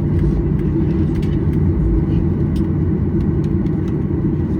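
Steady low rumble of a Boeing 737-800 heard from inside the passenger cabin.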